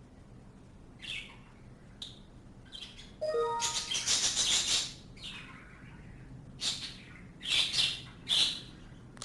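Small birds chirping: scattered short high calls, with a louder run of harsh, scratchy calls from about three and a half to five seconds in and a few more near the end.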